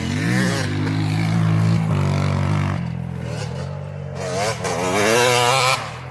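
Motocross bike engines running and being revved, the pitch rising and falling in two surges, the louder one climbing over the last two seconds before dropping off sharply near the end.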